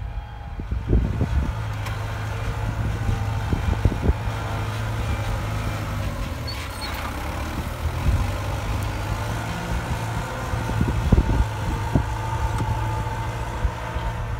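Tractor diesel engine running steadily, with irregular low thumps over it.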